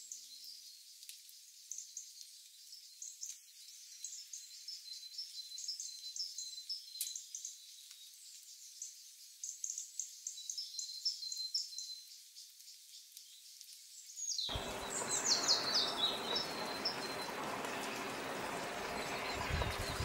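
Small birds chirping and twittering in quick, high phrases over a thin, steady high tone. About 14 seconds in, a steady background hiss joins them, and a rapid run of notes slides down in pitch.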